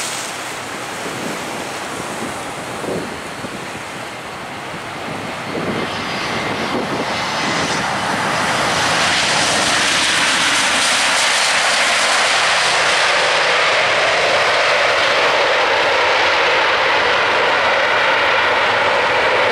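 Airbus A320-232 jet engines, IAE V2500s, during a landing, the sound growing louder over several seconds about a third of the way in and then holding steady and loud.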